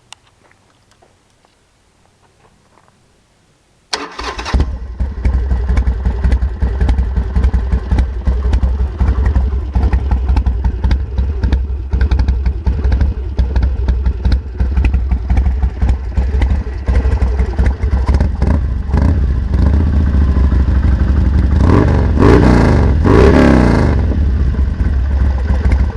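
2005 Harley-Davidson Sportster V-twin with an aftermarket Bobcat exhaust, starting up suddenly about four seconds in and then idling loudly, with two short revs near the end.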